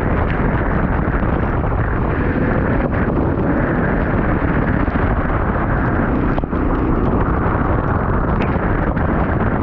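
Go-kart engine running under way, its pitch faintly rising and falling, largely buried in a loud, steady rush of wind noise on the microphone.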